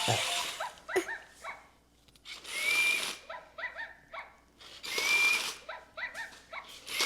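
Toy robot dog making its electronic barking and yipping sounds, a short pattern that repeats about every two and a half seconds.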